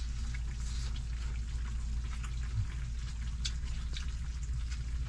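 Pot of chicken stew simmering on a stove, with small irregular bubbling and crackling over a steady low hum.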